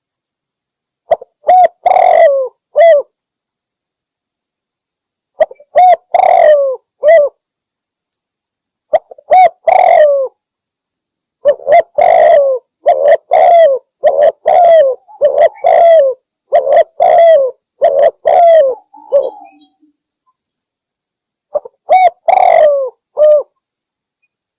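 Spotted dove (derkuku) cooing loudly in repeated phrases of a few notes each, separated by pauses of a couple of seconds, with one longer run of calls in the middle.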